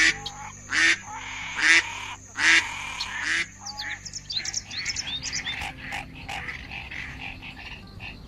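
Ducks quacking: four loud, harsh quacks at an even pace over the first few seconds, then a run of quieter, shorter calls that rise in pitch.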